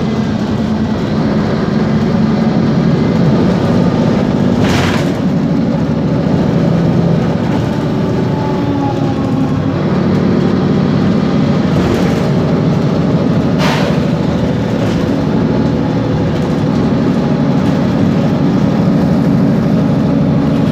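Mercedes-Benz Conecto G articulated city bus under way, its turbocharged OM457LA straight-six diesel and driveline giving a steady low drone, with a faint whine that drifts in pitch. Two short hisses cut in, about five and fourteen seconds in.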